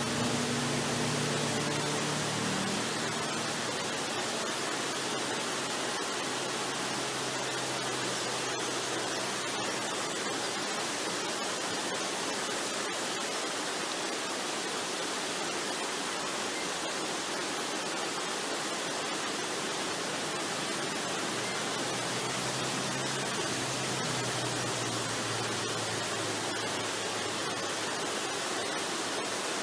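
Steady, even rush of a waterfall. Soft, low sustained tones of relaxation music lie faintly underneath near the start and again in stretches later on.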